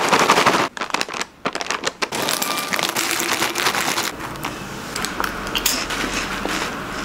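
Plastic snack bag crinkling and crackling as it is handled, a dense run of small crackles and clicks that eases somewhat after about four seconds.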